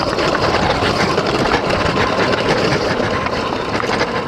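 X Pro dirt bike engine running on the trail as the bike bounces and rattles over rough bumps. It is a dense, steady noise with many small irregular knocks.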